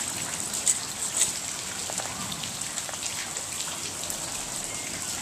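Heavy rain falling steadily, a dense patter of drops with scattered sharper drop hits close by.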